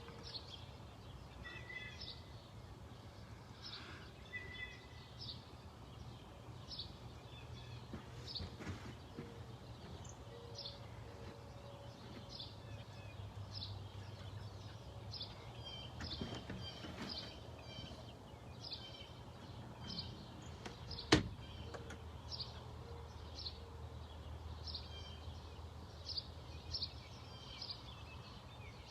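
A small bird chirping over and over, short high chirps about once a second, over a steady low hum of background noise. A single sharp click sounds a little past two-thirds of the way through.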